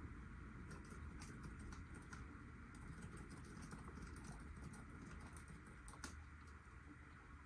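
Faint steady rain, with scattered drops tapping irregularly.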